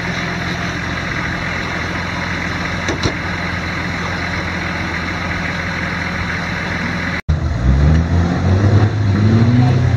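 Off-road 4x4 engine idling steadily. About seven seconds in, after a cut, a louder engine revs up and down repeatedly as a vehicle works in deep mud.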